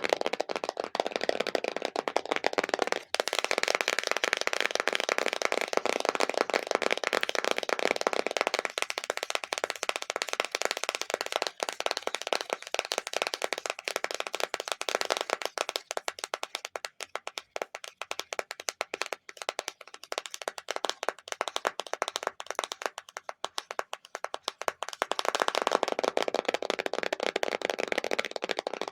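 Extremely fast tapping on assorted objects: a dense, continuous patter of quick taps with a brief break about three seconds in. The tone of the tapping changes partway through, thinner for a while and then fuller again near the end, as the surface changes.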